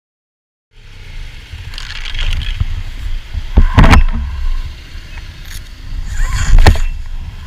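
Low, steady rumble of a motorcycle and wind on the rider's camera microphone, starting after a moment of silence, with two louder noisy bursts: one about three and a half seconds in and another about six and a half seconds in.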